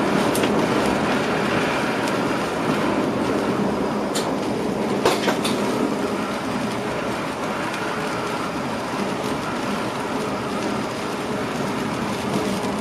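Passenger train running along the track, heard from inside the driver's cab: a steady rumble of wheels on rails, with a few sharp clicks from about four to five and a half seconds in.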